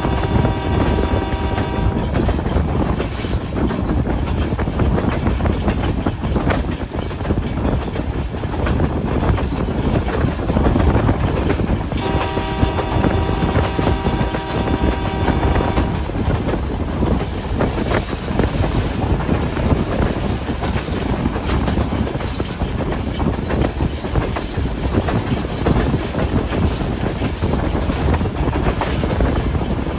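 Passenger train running along the track with a steady rumble and wheel clatter. Its locomotive horn sounds a held, chord-like note that stops about two seconds in, then sounds again near the middle for about four seconds.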